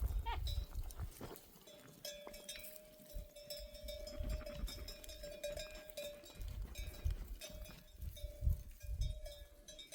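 A flock of sheep and goats with their neck bells clinking and jangling, and a short bleat near the start. A steady hum sits underneath, and gusts of wind rumble on the microphone.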